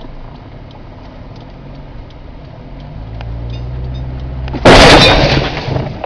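Car crash: a low engine hum grows louder, then a sudden, very loud impact about three-quarters of the way through, its crunching noise dying away over about a second.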